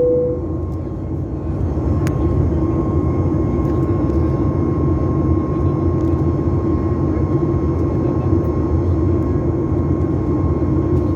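Steady cabin noise of a Boeing 737 MAX 8 airliner in flight after takeoff: its CFM LEAP-1B jet engines and the airflow make a continuous low rumble with a faint steady whine above it. A short clear tone sounds right at the start.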